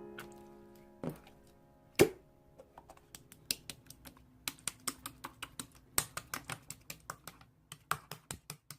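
A tune's last notes fade out at the start. Then come two louder knocks, about one and two seconds in, followed by a run of quick, irregular clicks and taps, several a second, like typing.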